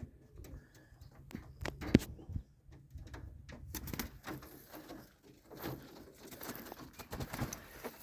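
Pigeons in a loft cooing, with irregular sharp clicks, flutters and rustles among them; the loudest is a sharp knock about two seconds in.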